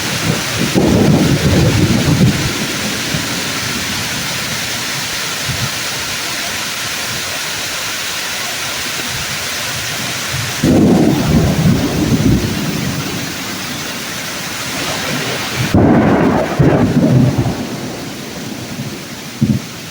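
Thunderstorm in woodland: steady heavy rain pouring on tree leaves, with rolling thunder rumbling three times, near the start, about halfway through and again about three-quarters of the way in, each lasting two or three seconds, and a short low thump just before the end.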